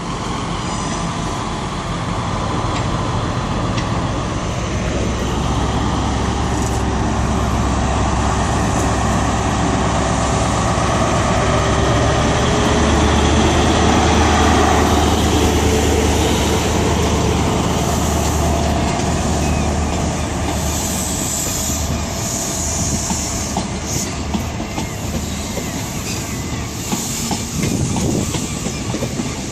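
A diesel train moving through the station, its engines running with a steady low hum and wheel noise that build to a peak about halfway through and then ease off.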